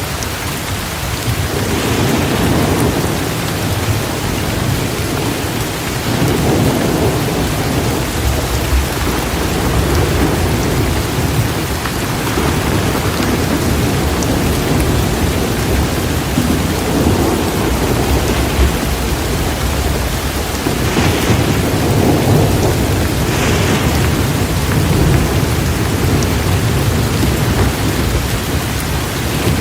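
Torrential rain falling steadily, with thunder rumbling again and again in low swells that build and fade every few seconds.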